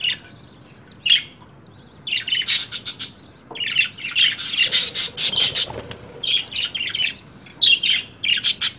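Budgerigars chirping and squawking, with loud harsh chattering calls in bursts from about two to three seconds in and again from four to six seconds in.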